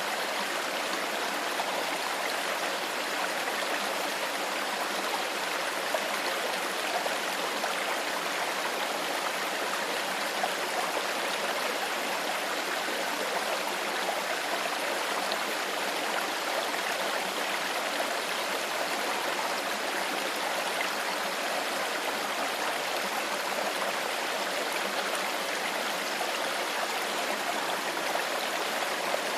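Shallow stream flowing steadily over stones, a continuous babbling rush of water.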